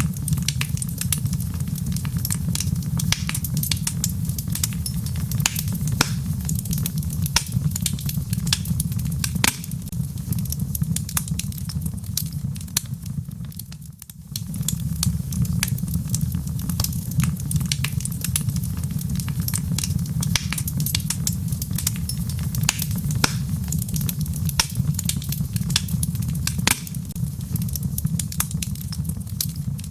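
Wood logs burning in a fireplace, crackling with frequent sharp pops and snaps over a steady low rumble of flames. The sound briefly drops away about halfway through, then returns.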